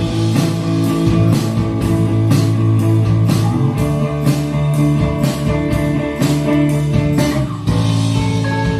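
Rock band playing: guitars and bass holding sustained chords over a steady beat of drum and cymbal hits about twice a second.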